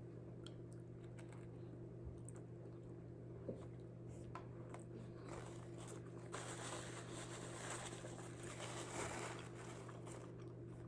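Low steady electrical hum with faint rustling and a small click or two, about a second of louder rustling near the middle.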